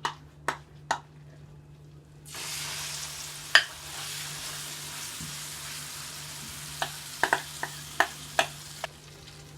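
Sweet potato batter sizzling in hot oil in a frying pan. The sizzle starts suddenly a couple of seconds in, with a few sharp clinks and taps of a utensil against the pan before and during it.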